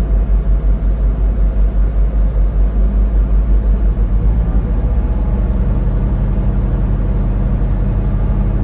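Truck engine running and road noise while driving, a low rumble that pulses for the first few seconds and evens out about halfway through.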